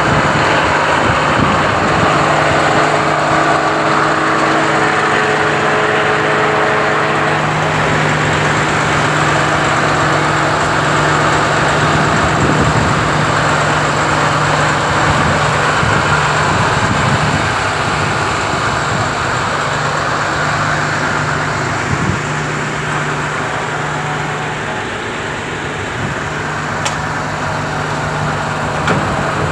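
MAN TGS 35.360 truck's diesel engine running steadily at idle, with one short tick about 27 seconds in.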